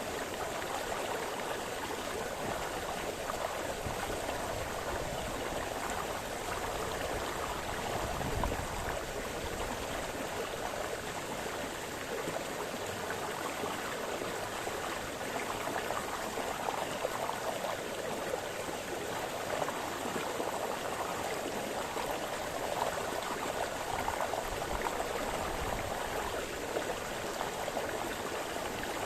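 A small brook splashing and babbling over stones, a steady rush of moving water.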